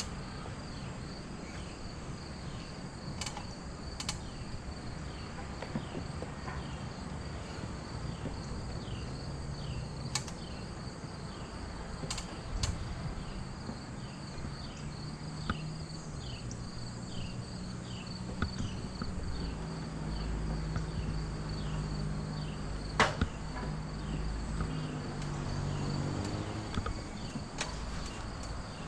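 Insects chirping steadily in a constant pulsing trill, with a short falling chirp repeating about twice a second. A few sharp clicks and knocks break in, and a low hum grows louder about twenty seconds in.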